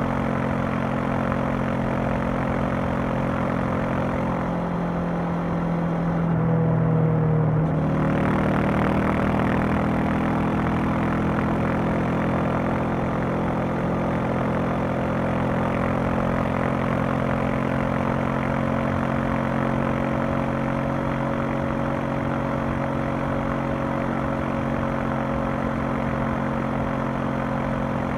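Honda CB500X's parallel-twin engine and exhaust running steadily while riding. The engine note changes briefly about five seconds in, then settles back into a steady cruise.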